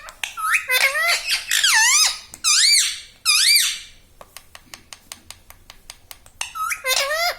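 Pet parrot making a series of loud, squeaky calls that rise and fall in pitch for the first few seconds, then a run of light clicks, then another squeaky call near the end.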